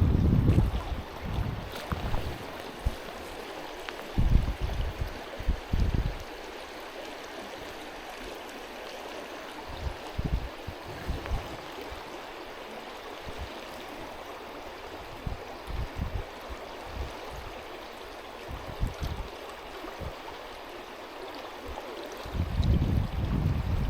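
Stream water running steadily, a constant rushing hiss. Low rumbles of wind on the microphone break in now and then, heaviest near the start, a few seconds in, and again near the end.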